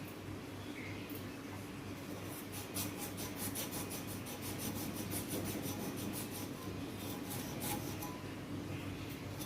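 Rapid scraping or rubbing strokes, several a second, starting about two seconds in and stopping near the end, over a steady low hum.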